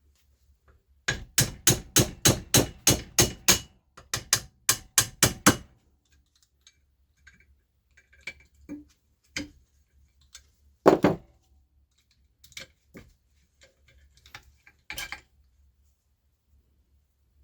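Rapid hammer blows on metal, about four a second: a run of about ten, a short pause, five or six more, then a few separate knocks spaced seconds apart.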